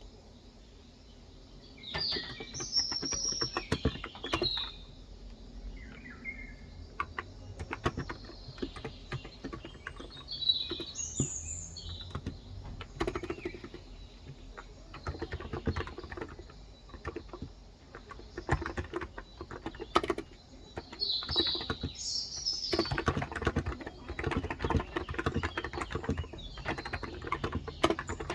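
Typing on a Cox Endeavor tenkeyless keyboard with 35 g electro-capacitive switches: runs of rapid keystrokes with short pauses between them. Birds chirp in the background every several seconds.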